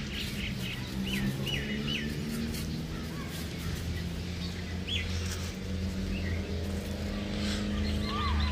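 Small birds chirping in short, hooked calls, a few at a time, over a steady low mechanical hum.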